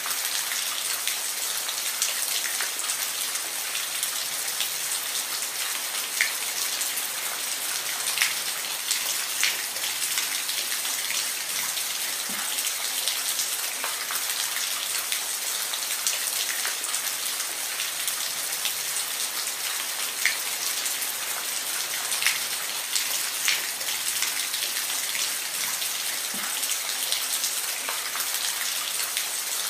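Steady rain falling on a surface, an even hiss with scattered louder individual drops landing every second or two.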